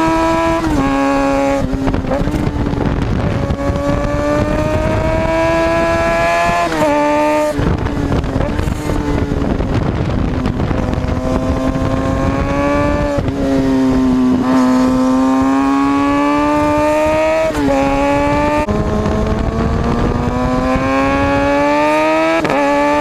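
Kawasaki Ninja ZX6R's inline-four engine running at high revs: its pitch climbs steadily under throttle and drops sharply at several gear changes, over a low wind rush.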